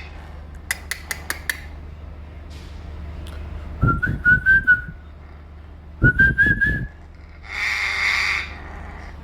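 A parrot whistling two short phrases of about a second each, the pitch wavering and rising. A few clicks come early on, and a short harsh rasp follows near the end.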